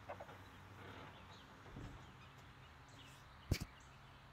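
Quiet outdoor background with faint bird chirps, and two quick knocks close together about three and a half seconds in.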